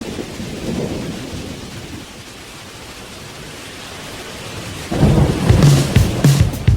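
A deep, thunder-like rumble with a rain-like hiss swells and then fades. About five seconds in, loud rock music with heavy guitar cuts in.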